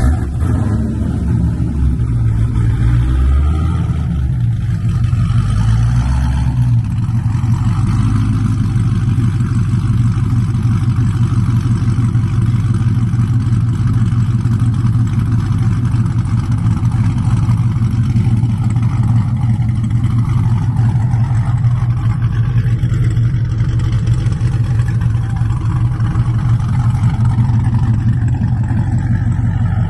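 Cadillac V's engine and exhaust, with a newly welded X-pipe, running loud and low. The note is uneven for about the first seven seconds, then settles into a steady drone.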